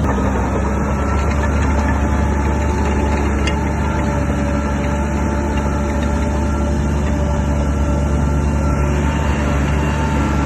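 Crawler bulldozer's diesel engine running steadily under load, with its steel tracks adding a thin metallic whine over the constant low drone.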